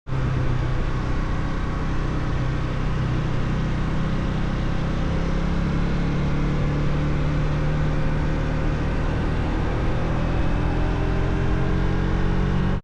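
Motorcycle engine running steadily while riding, mixed with wind and road noise. Its pitch rises over the last few seconds as the bike accelerates.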